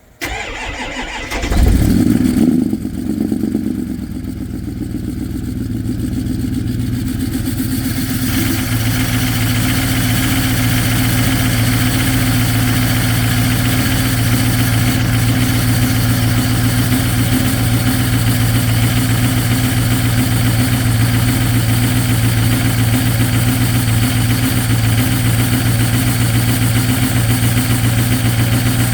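Ford 6.0 Power Stroke V8 turbodiesel cold-starting at −2°F: it cranks and catches within the first couple of seconds, runs briefly, then about eight seconds in rises into a steady cold-start high idle.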